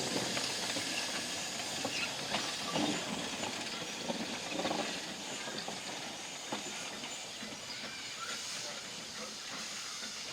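Steam hissing from a narrow-gauge steam locomotive, an even hiss with a few faint clicks that slowly fades.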